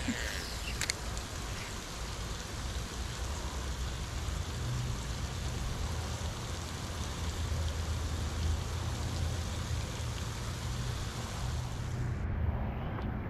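Rain falling steadily, an even hiss over a low, steady rumble. The high part of the hiss cuts out suddenly near the end.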